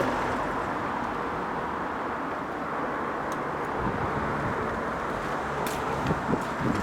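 Steady rushing background noise with no engine note in it, like distant road traffic, with a few faint clicks near the end.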